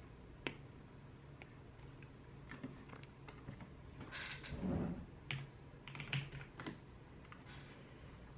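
Typing on a computer keyboard in irregular clusters of keystrokes, with a brief louder rustle about four and a half seconds in.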